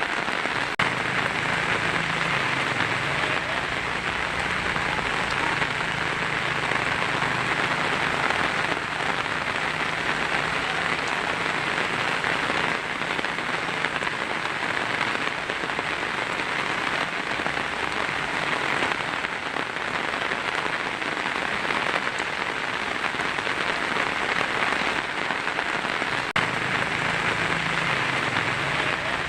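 Heavy rain drumming steadily on a tin roof, an even hiss of drops with no pauses. A low rumble sits underneath for much of the first half and returns near the end.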